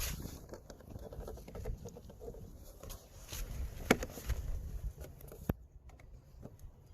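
Scattered light clicks, taps and rustles of hands working on a car's plastic door trim panel and its screws, with a sharper click about four seconds in and another about five and a half seconds in.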